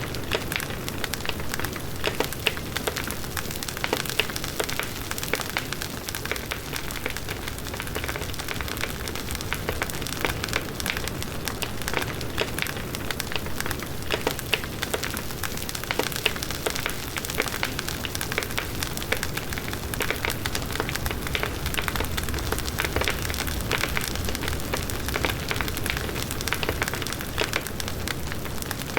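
Large wood bonfire burning: a dense, continuous crackling of burning wood over the steady rush of the flames.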